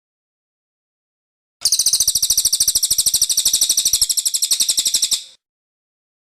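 Cililin bird singing one fast, even, high-pitched trill of about fifteen notes a second, lasting under four seconds and cut off abruptly, with dead silence before and after it.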